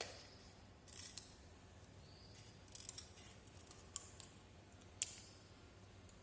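Scissors snipping through a thin foam sheet: a few short, crisp cuts about a second apart.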